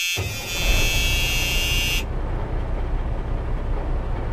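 A steady, high electronic buzzing tone that cuts off suddenly about two seconds in, over a low rumbling noise that carries on after it.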